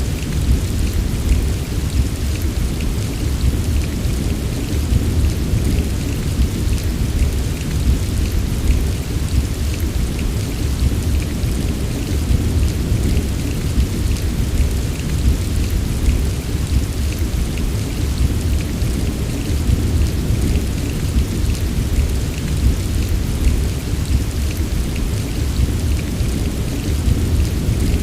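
Steady heavy rain: a dense patter of drops over a continuous deep rumble, with no distinct thunderclaps.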